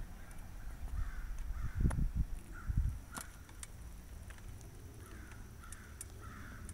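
Birds calling over and over in short, falling calls, with a few low thuds about two and three seconds in.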